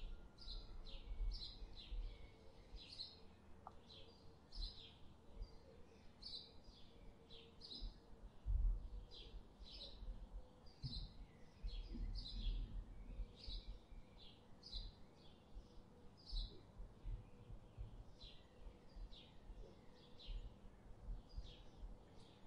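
Small bird chirping repeatedly, short high chirps coming one or two a second, over a faint uneven low rumble.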